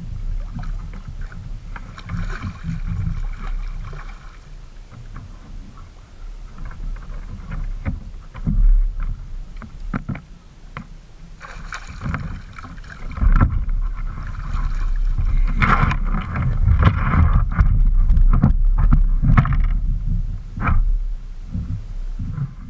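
Water sloshing and splashing around a kayak, with wind rumbling on the microphone and scattered knocks. It grows louder about halfway through.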